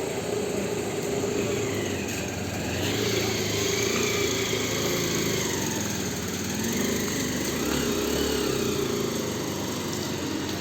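A small engine running steadily, its pitch rising and falling in the middle stretch.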